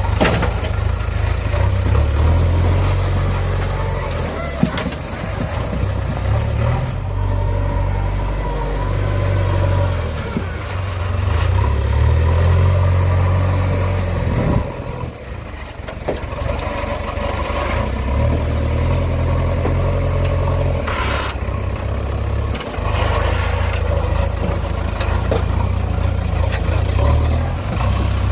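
Diesel engine of a JCB 3DX backhoe loader working under load, its note swelling and falling back every few seconds as the hydraulics dig and lift, with a few knocks.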